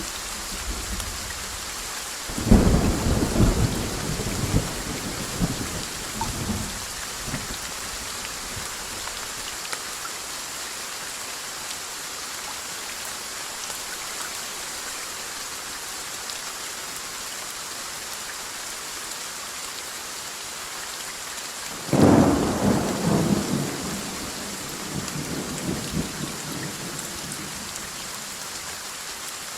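Steady rain with two peals of thunder, one a couple of seconds in and another about two-thirds of the way through. Each starts suddenly and rumbles away over several seconds.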